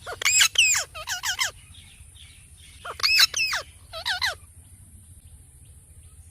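Parrot calling: two bursts of loud, sharp, sweeping squawks and chirps, the first right at the start and the second about three seconds in.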